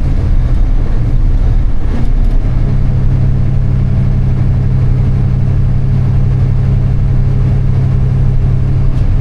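Truck engine running steadily while driving: a loud, steady low drone that firms up and grows stronger about two and a half seconds in.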